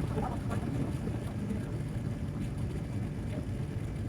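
Steady low drone of a Boeing 787-9 cabin in flight: engine and airflow noise heard from inside the cabin.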